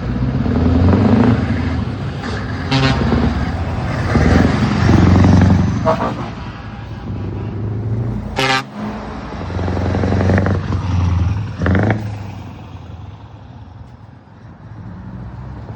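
Heavy trucks' diesel engines pulling away and accelerating past, swelling and fading several times. Short horn toots sound three or four times, the loudest and shortest about halfway through.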